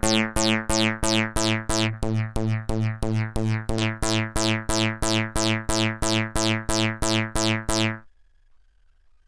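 Zic Pixel DIY groovebox's bass synth engine repeating one low note about three and a half times a second, each note starting bright and quickly dulling. The pattern stops abruptly about eight seconds in.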